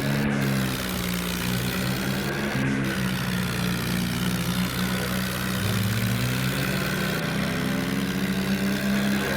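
Tractor engine running steadily, its pitch dipping briefly about halfway through and rising again.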